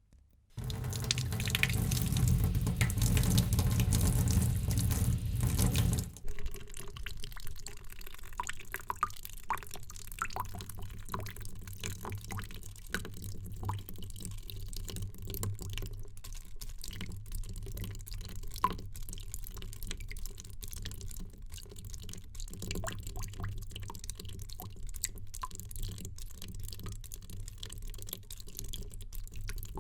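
Water running in a steady stream for about five seconds, then stopping sharply and giving way to water dripping: many small, irregular drops over a low steady hiss.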